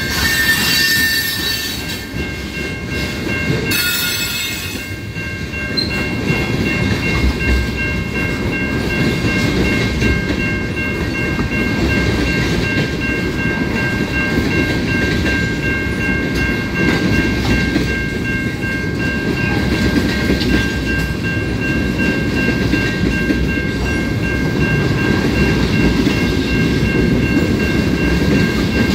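A train rolling through a level crossing: a steady low rumble of cars on the rails, with a few thin high tones held above it throughout. Brief high squeals or hisses come in the first few seconds.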